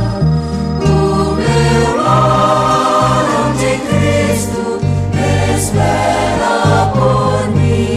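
Gospel music with a vocal choir: voices hold sustained notes over a bass line and steady band accompaniment.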